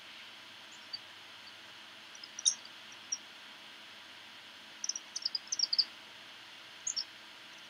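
Outdoor ambience of small birds chirping: a few scattered short, high chirps, with a quick run of them about five seconds in, over a faint steady hiss.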